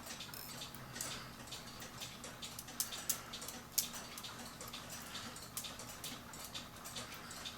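Cuckoo clock's mechanical movement ticking, with a few sharper clicks standing out, over a faint steady hum.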